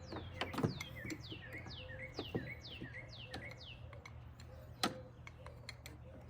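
A songbird sings a run of about nine quick down-slurred whistles over roughly four seconds, with a few sharp clicks and knocks of hand work on the machine, the loudest about five seconds in.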